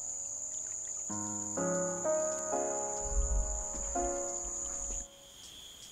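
An insect's steady, high-pitched trill over held musical chords that change every second or so. About five seconds in, the trill and the music stop abruptly, and a quieter, lower-pitched insect trill carries on.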